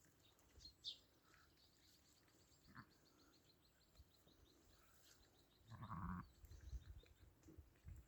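A bleat from the flock, sheep or goat, about six seconds in, faint against quiet open-air background. A faint, rapid, high ticking runs through the first half.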